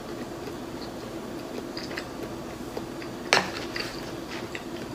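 Close-miked chewing with small wet mouth clicks over a faint steady hum. A little over three seconds in, wooden chopsticks give one sharp click against a plastic takeout bowl.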